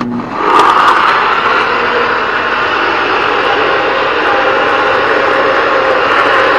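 Steady running noise of a vehicle, rising over the first half-second after a cut and then holding even.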